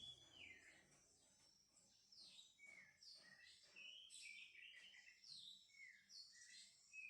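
Faint bird chirping: short high calls, many sweeping downward, repeated every half second or so.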